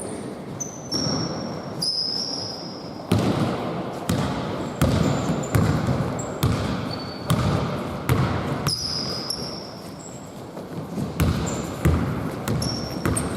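A basketball bouncing on a gym court, a dozen or so thuds about a second apart, with many short, high squeaks of sneakers on the floor.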